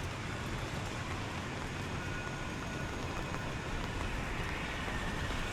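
Steady street traffic noise, with a vehicle engine running close by.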